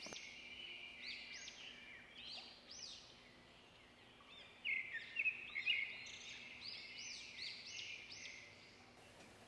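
Faint birdsong: a run of short, arching whistled chirps repeating throughout, busiest in the second half.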